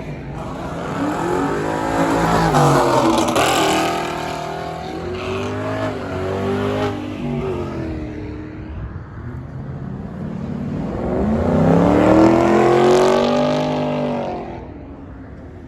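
Car engine revving hard, its pitch rising and falling in repeated sweeps. It is loudest about three seconds in and again about twelve seconds in, then fades near the end.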